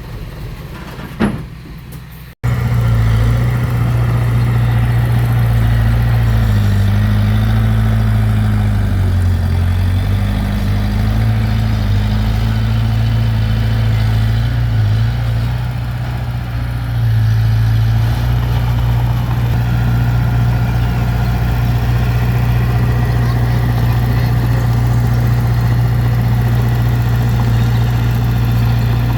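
A heavy diesel engine running loud and steady, its pitch sagging briefly twice. It starts abruptly after a quieter opening with a single sharp knock.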